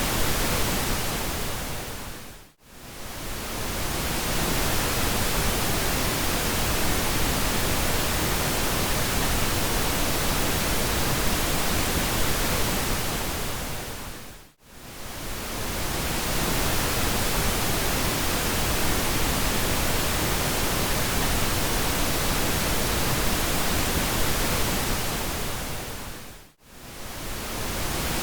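Continuous pink noise, a steady even hiss across the whole range, that briefly fades out to near silence and back in three times, about every twelve seconds.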